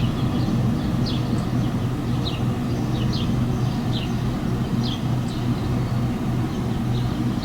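Steady low rumble of jet engine noise with a faint, even hum. Small birds chirp briefly about once a second over it.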